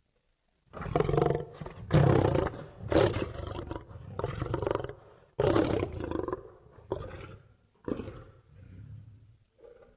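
Lion roaring: after a moment of silence, a bout of deep, loud roars gives way to a string of shorter grunting roars about one a second, fading toward the end.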